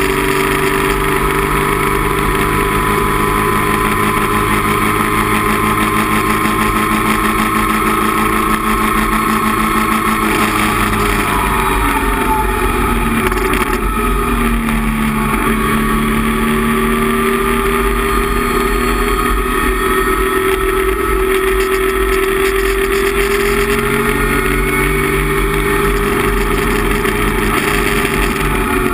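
Datsun 260Z race car's 2.6-litre straight-six engine heard from inside the cabin, running hard at high revs with road and wind noise. The pitch holds level for about ten seconds, falls as the engine comes off the throttle, then climbs slowly for most of the rest before dropping again near the end.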